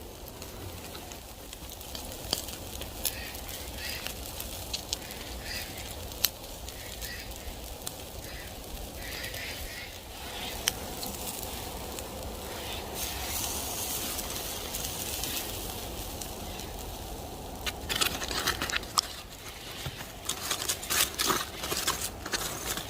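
Wood campfire crackling with sharp pops, which come thicker and louder in the last few seconds.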